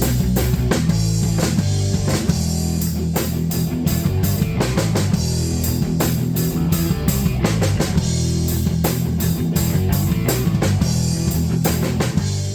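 Loud rock music with electric guitar, bass and a drum kit hitting steady crashing cymbals, starting to fade out at the very end.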